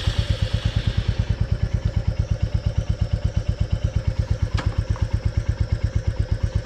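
Motorcycle engine idling with an even, rapid pulse of about ten beats a second, and a single faint click about four and a half seconds in.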